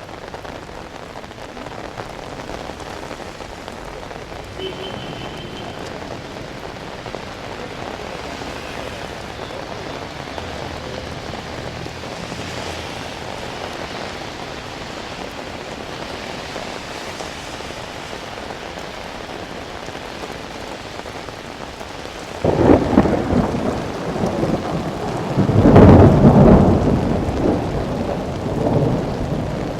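Steady rain falling, then about three quarters of the way through a sudden loud thunderclap that rumbles on, swells again a few seconds later and dies away near the end.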